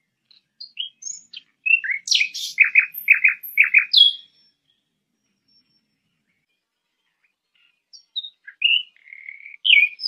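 Songbird chirps and calls: a burst of short chirps running into a quick series of down-slurred notes for about four seconds, a pause of several seconds, then more chirps near the end.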